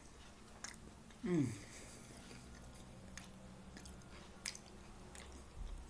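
A person chewing a mouthful of taco gratin close to the microphone, with scattered small wet mouth clicks. About a second in, a short vocal sound sliding down in pitch, the loudest moment, trails into a faint low hum.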